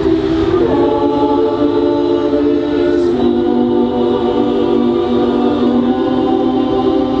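Community choir singing, with long held chords that change every second or so.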